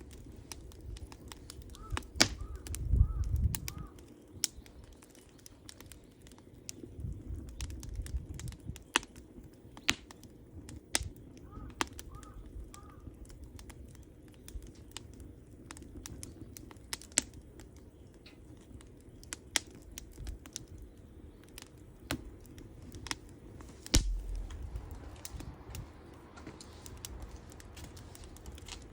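Wood campfire crackling, with irregular sharp pops and snaps and a few bursts of low rumble. A bird chirps faintly twice, four short notes each time.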